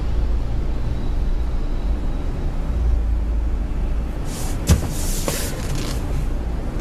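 Steady low rumble of a car's engine heard from inside the cabin, with a brief sharp knock and a short hiss about two-thirds of the way in.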